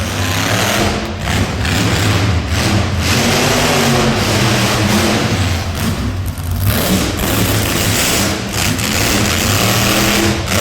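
Monster truck engine revving hard and surging up and down, with brief let-offs of the throttle about a second in, near the middle and near the end.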